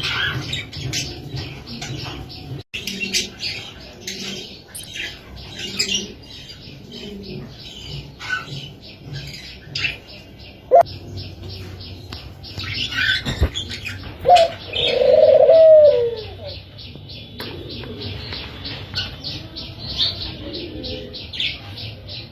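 Doves cooing, with one louder, longer coo about fourteen to sixteen seconds in, over a fast, steady train of high chirps.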